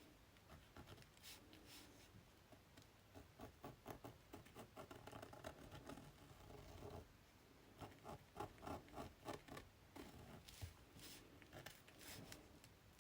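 Faint, quick scratching strokes of a drawing tool on paper, in short runs, as stems and leaves are drawn.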